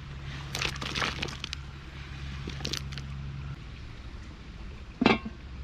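Clinking and clattering of kitchenware: a cluster of sharp clinks early on, a couple more a little later, and one louder thump near the end. A low steady hum stops about halfway through.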